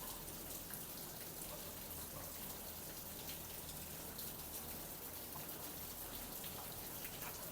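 Steady rain falling outdoors, a soft even hiss with faint ticks of single drops.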